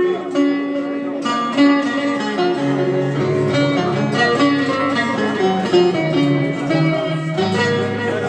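Music played on plucked string instruments: a melody of quick, changing notes over lower held tones.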